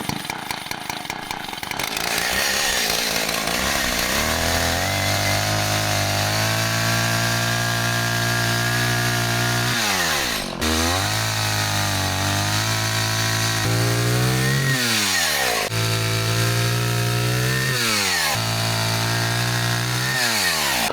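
Homelite two-stroke chainsaw running, rough for the first couple of seconds and then held at high revs. In the second half its pitch sags and climbs back about four times, as in cutting through wood.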